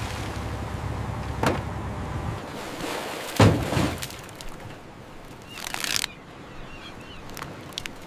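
A low rumble that stops after about two seconds, with sharp thuds about one and a half and three and a half seconds in, the second the loudest. A short hissing burst comes near six seconds in.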